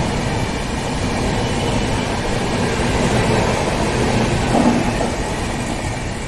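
Indian Railways passenger coaches rolling past along a platform: steady rumble of wheels on rail, easing off near the end as the last coach goes by.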